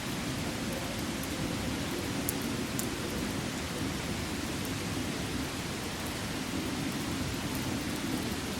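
Wood fire burning: a steady hiss with a few sharp crackles, two close together about two and a half seconds in.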